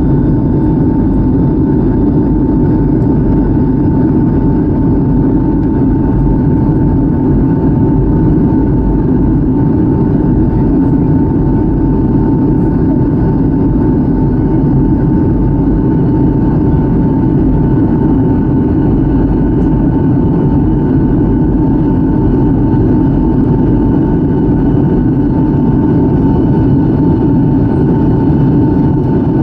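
Boeing 757-200 jet airliner running: a steady, loud rumble of engines and rushing air with a steady high whine over it.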